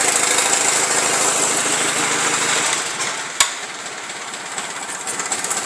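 Old carbureted engine, just cold-started after sitting three months through winter, running steadily and then dropping back to a quieter idle about three seconds in, with one sharp click as it settles. It holds the idle smoothly.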